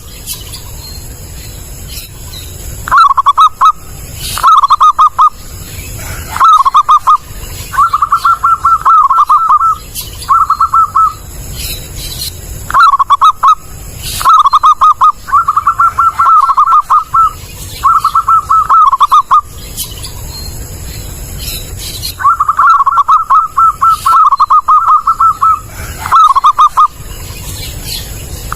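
A zebra dove (perkutut) cooing loudly in a string of short, stuttering coo phrases, some a second or two long, with brief pauses between them. A faint low hum fills the gaps.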